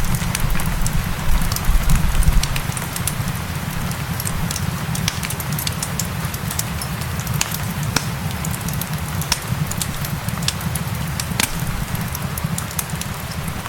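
Wood fire crackling, with scattered sharp pops over a low rumble of the burning fire, mixed with the steady hiss of rain. The low rumble swells briefly in the first couple of seconds.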